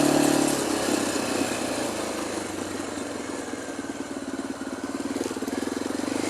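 Single-cylinder, air-cooled thumper dirt bike engine running at low revs with an even pulse, easing off through the middle and building again near the end.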